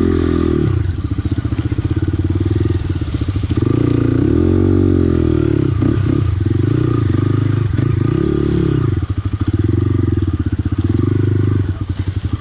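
Motorcycle engine running on a rough offroad track, its revs rising and falling twice, with a few brief knocks along the way.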